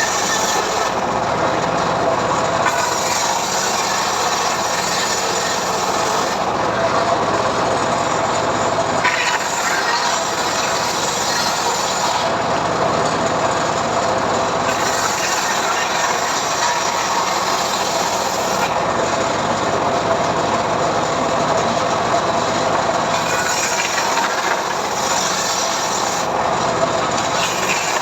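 Homemade log sawmill ripping a mahogany log, its saw and engine running steadily without a break.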